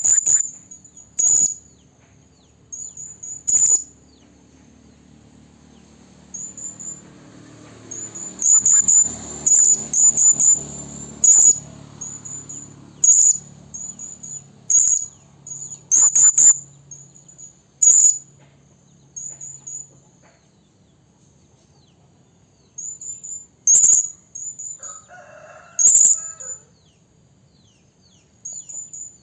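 Serindit (hanging parrot) calling: short, very high, piercing notes, given singly or in quick runs of two to four, with pauses between. It is a lure call, a serindit hen calling for a male.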